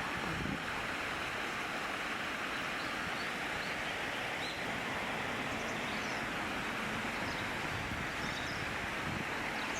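Steady, even outdoor rushing noise, with a few faint, short high chirps scattered through it.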